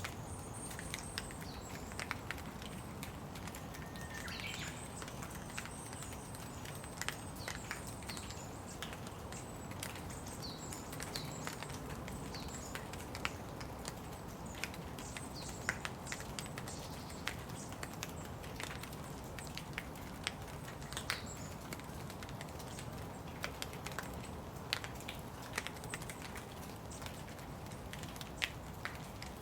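Steady rain falling, with many sharp drops tapping and dripping on nearby surfaces. A bird gives thin, high chirps through the first half.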